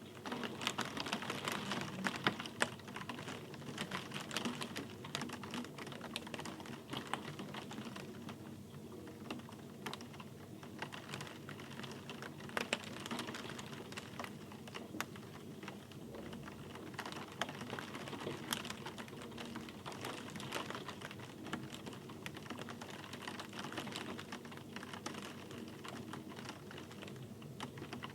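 Steady rain with many close drops ticking irregularly, a dense crackle of individual drop hits over a soft hiss.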